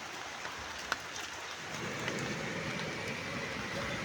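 Steady rain falling, an even hiss, with one sharp click about a second in and a low rumble joining about halfway through.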